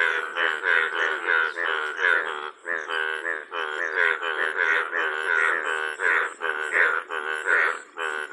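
A chorus of frogs calling: short, pitched calls, each a fraction of a second long, following one another several times a second with hardly a pause.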